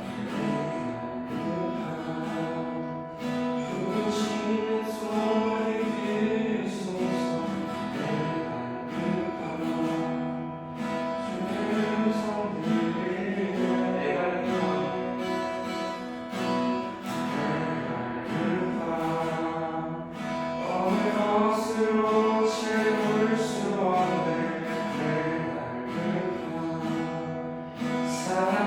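Worship song: voices singing over a strummed acoustic guitar.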